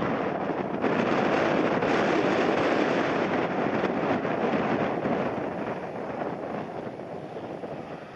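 Jet airliner engine noise as the plane passes close by, loud at first and fading over the last few seconds, with strong wind buffeting the microphone.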